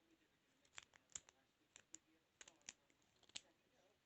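Faint, irregular small metallic clicks of a lock pick and tension wrench working in a padlock's keyway, about ten scattered clicks.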